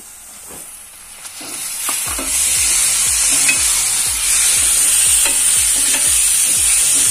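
Chopped tomatoes frying in hot oil and onion masala in a metal kadhai, stirred with a metal ladle that scrapes the pan about twice a second. The sizzling grows loud about two seconds in.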